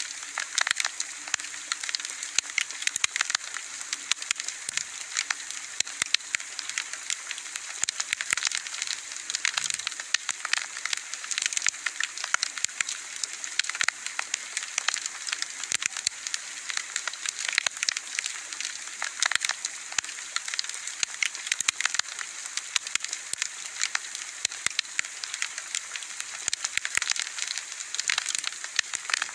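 Wood fire burning, with dense irregular crackling and popping over a steady hiss.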